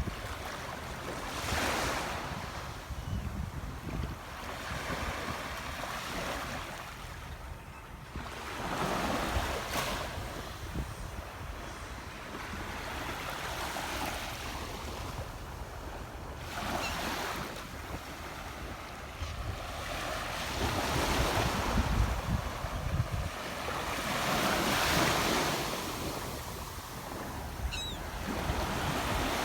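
Waves washing in, swelling and fading every few seconds, with wind buffeting the microphone.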